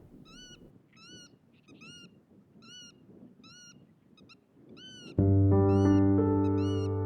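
An animal's short, high call, each call rising and falling in pitch, repeated about twice a second. About five seconds in, louder background music with sustained chords comes in over it.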